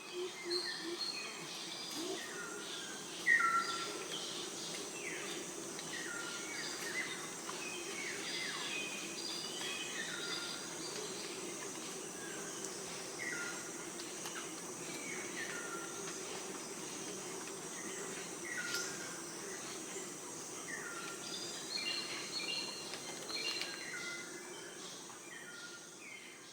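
Birds calling repeatedly in short phrases of notes that step down in pitch, over a steady high insect drone.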